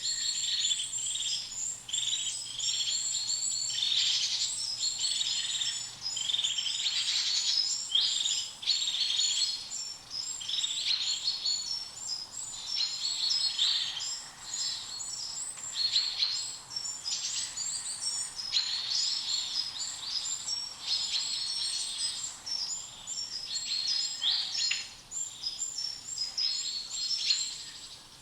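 Many small birds chirping at once: a dense, unbroken run of quick, high-pitched notes overlapping one another.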